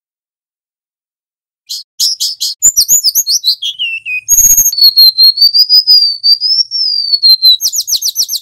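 Golden-bellied gerygone (remetuk laut) singing. After a short silence comes a quick run of high, falling whistled notes, then a brief crackle of noise, then one long, wavering high whistle. Near the end it breaks into another rapid string of notes.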